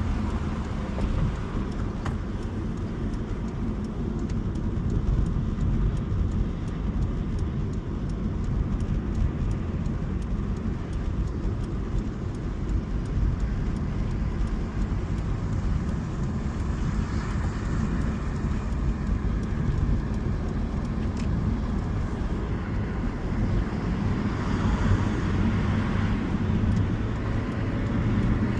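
Toyota Sprinter Trueno's 4A-GE 20V four-cylinder engine running at a steady cruise under tyre and road rumble, growing slightly louder toward the end.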